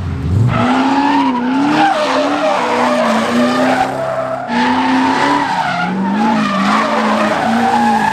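A drift car on track: the engine revs up and is held high, its pitch bouncing up and down, while the tyres squeal and skid.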